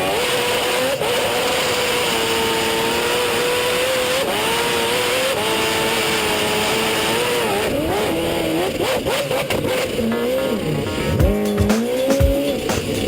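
Jet boat engine running hard, its pitch rising and falling again and again as the throttle is worked, over a steady hiss. Music with a thumping beat comes in near the end.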